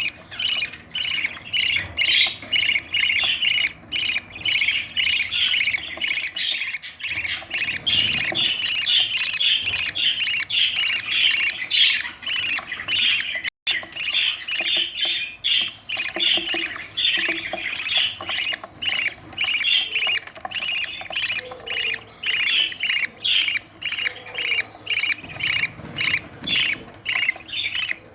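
Budgerigar chicks begging to be fed: a rapid, unbroken string of short raspy squawks, about two to three a second, with a brief gap about halfway through.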